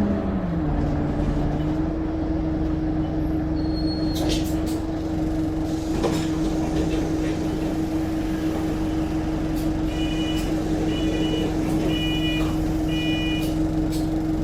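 Engine of a double-deck bus heard from inside, its note dropping at the start to a steady idle and rising again near the end as it pulls away. About ten seconds in there are four short electronic beeps, and a few clicks earlier on.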